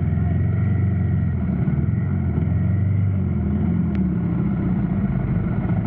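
Motorcycle engine running steadily with a low, even hum; its pitch shifts about four seconds in.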